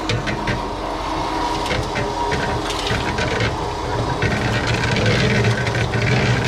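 An engine running steadily, its hum growing louder about four seconds in, with irregular scraping and clicking on top.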